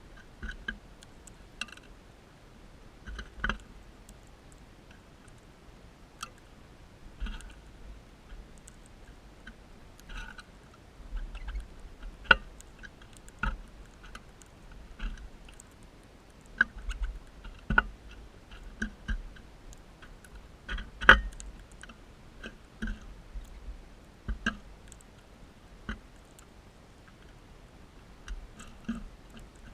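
Crimson rosellas feeding: irregular sharp clicks and crunches, as of beaks cracking seed, with short soft chirps scattered between.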